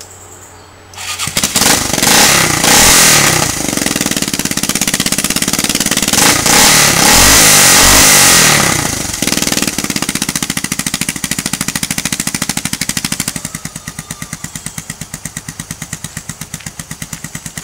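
ATV engine breathing through a homemade side-exit straight-pipe exhaust made from the stock muffler's baffle: it starts about a second in, is revved up and down for several seconds, then drops back to idle with a rapid, even exhaust pulse near the end. The sound is a pretty aggressive one.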